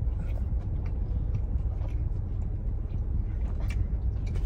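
A person chewing a bite of thin-crust pizza, with faint crunches, over a steady low rumble inside a car.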